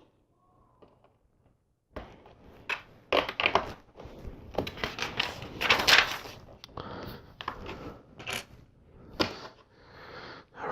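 LEGO pieces clicking and clattering as hands sort through loose bricks and press them onto the build: a dense run of small plastic clicks and rattles that starts about two seconds in.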